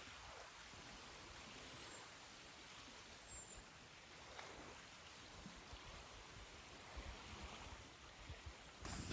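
Near silence: a faint, steady outdoor hiss, with two brief high chirps about two and three and a half seconds in, and a few soft low thumps near the end.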